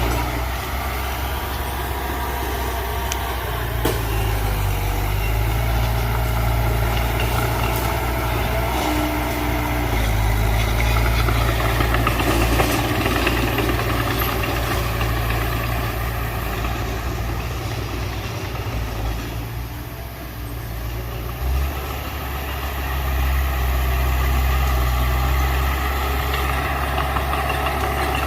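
Heavy earthmoving machine's diesel engine running steadily, its low note shifting a little past twenty seconds in.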